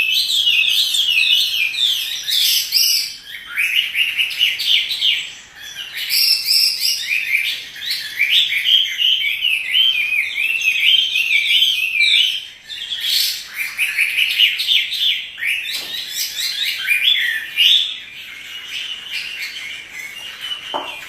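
Chinese hwamei (melodious laughingthrush) in full song: a long, rapid, ever-changing run of high whistled phrases, with brief pauses about five and twelve seconds in and softer singing over the last few seconds.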